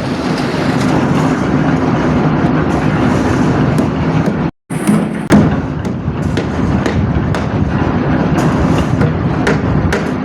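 A machine engine running steadily with a low hum, with a string of short knocks and clanks in the second half. The sound breaks off for a moment a little before halfway.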